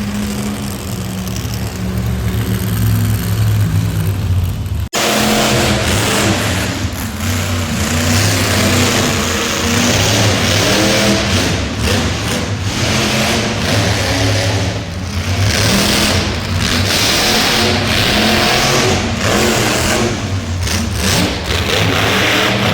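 Monster truck engine running and revving loudly, its pitch rising and falling. The sound breaks off abruptly about five seconds in and picks up again at once.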